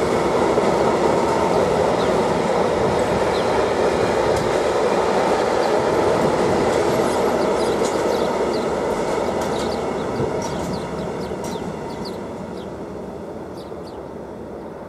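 Freight train running on the rails, a steady rumble of wheels and wagons with faint high clicks and squeals, fading away over the last few seconds.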